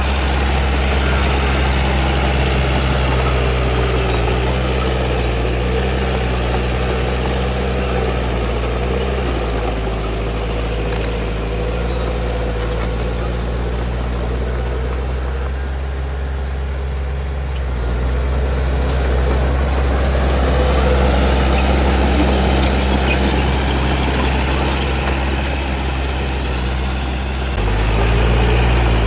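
Heavy diesel engine of earthmoving machinery running steadily. It eases off about a third of the way in, picks up again past the middle, and changes pitch just before the end.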